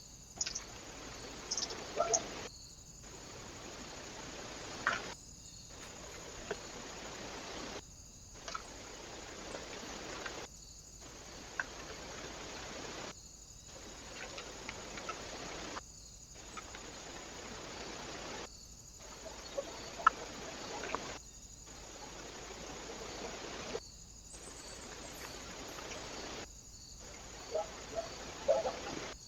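Steady trail-camera microphone hiss, chopped into short stretches by brief dropouts about every two and a half seconds, with scattered sharp clicks and taps from birds at a feeder.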